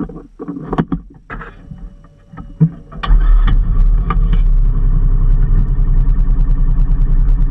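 A few knocks and clicks, then an engine starts abruptly about three seconds in and settles into a steady, evenly pulsing idle.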